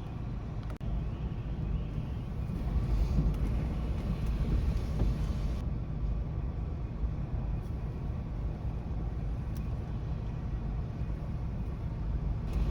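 Low, steady outdoor rumble that swells about two seconds in and then holds.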